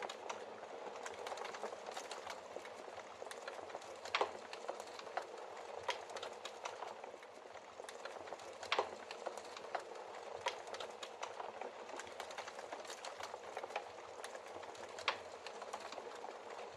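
Wood fire in a fireplace burning steadily: a soft hiss of flames with irregular crackles and pops from the logs, the sharpest pops about 4, 9 and 15 seconds in.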